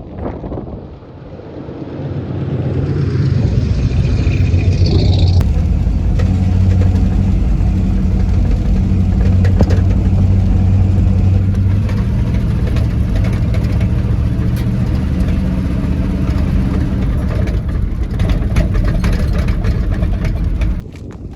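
1973 Chevy K20 pickup's engine picking up speed about two seconds in, then running steadily at an even pitch as the truck drives along. The sound drops away suddenly just before the end.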